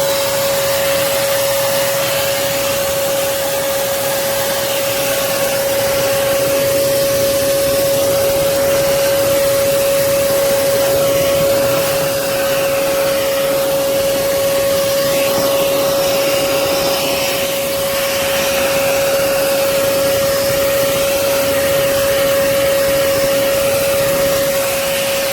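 Hoover Commercial PortaPower CH30000 canister vacuum cleaner running steadily, a constant motor whine over a rush of air, as it sucks up dust and spider webs.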